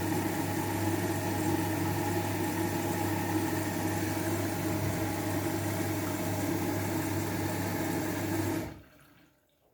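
Washing machine running with a steady mechanical hum, cutting off abruptly near the end.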